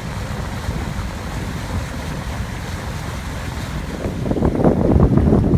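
Wind buffeting the microphone aboard a boat under way: a steady low rumble that swells into stronger gusts about four seconds in.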